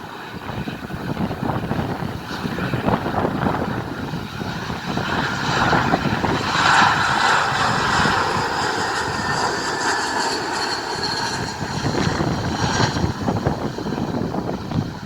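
Jet airliner passing low on landing approach: its engine noise swells from about five seconds in, is loudest around seven seconds, and fades by about thirteen seconds, with a faint high whine that drifts down in pitch. Strong wind gusts on the microphone throughout.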